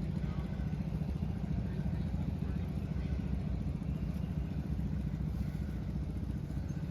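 An engine running steadily at an even, fast beat.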